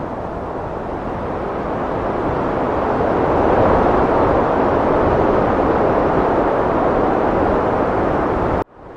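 Heavy wind blowing in a steady rush that swells a few seconds in, then cuts out abruptly for a moment near the end and fades back in.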